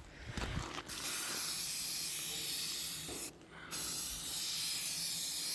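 Aerosol spray-paint can spraying in two long, steady hisses with a brief pause between them.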